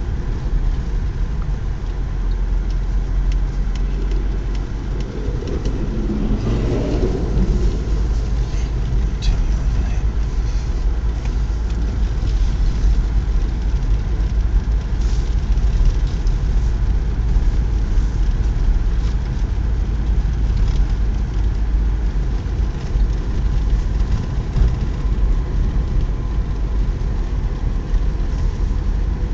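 Steady low rumble of a car's engine and tyres on a snowy mountain road, heard from inside the cabin, with a brief louder swell about six seconds in.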